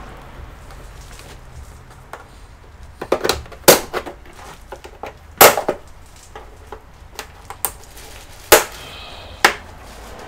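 Sharp clicks and knocks of plastic case parts and small components being handled during disassembly of an all-in-one computer: a cluster around three to four seconds in, then single sharp clicks about halfway through and twice near the end.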